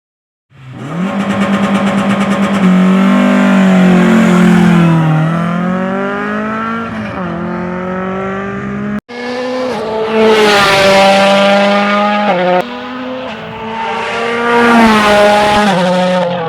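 Rally cars at full speed on a stage, engines revving hard and dropping back with each gear change, with a fast stutter in the engine note during the first couple of seconds. The sound cuts abruptly about nine seconds in to another car doing the same.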